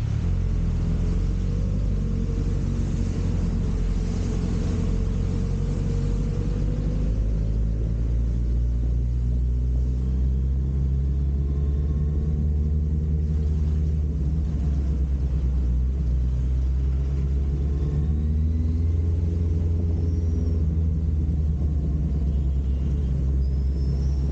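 Suzuki GSX650F motorcycle's inline-four engine running under way, a steady low rumble mixed with road and wind noise, with faint rising and falling engine tones as the throttle changes.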